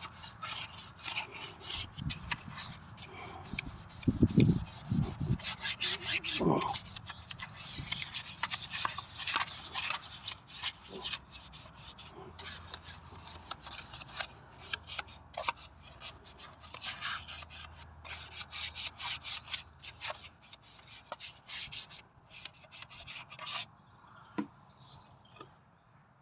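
Rapid scrubbing and rubbing strokes against the metal of an engine sump pan being cleaned out with petrol, with a few louder knocks about four to five seconds in.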